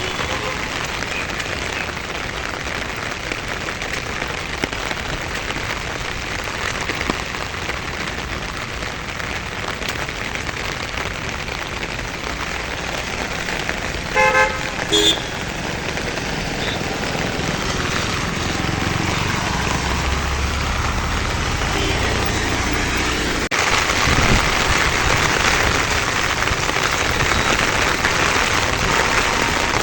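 Heavy rain falling steadily, a dense even hiss. About halfway through, a vehicle horn gives two short toots in quick succession.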